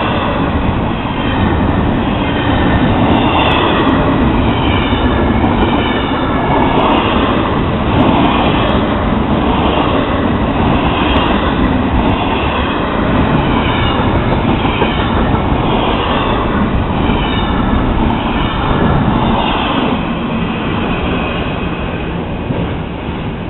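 Florida East Coast Railway double-stack intermodal freight train passing close by at a grade crossing, its well cars rolling and clattering over the rails, with the crossing bell ringing in a steady repeating rhythm. The train noise fades over the last few seconds as the end of the train goes by.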